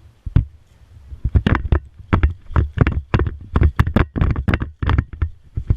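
Footsteps of a walking or jogging player, with kit jostling against the body-worn microphone: a steady run of dull thumps and scuffs, about two a second, starting about a second in.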